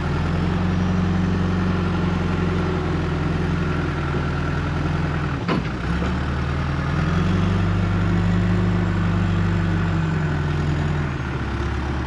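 Tractor engine running under load as it pulls forward. The revs rise, dip briefly with a sharp click about five and a half seconds in, rise again, and drop back near the end.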